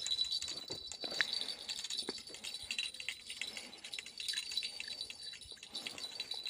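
Small bells tinkling and jingling irregularly, over a thin steady high-pitched tone.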